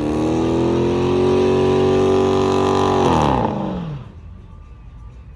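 Car engine revved up and held at high revs for about three seconds, then the revs drop away and the engine falls quiet.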